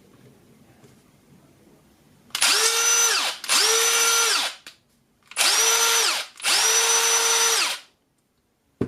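Milwaukee cordless screwdriver's motor run in four short trigger pulls. Each time its whine rises quickly to a steady pitch, then falls away as it stops. A sharp click comes near the end.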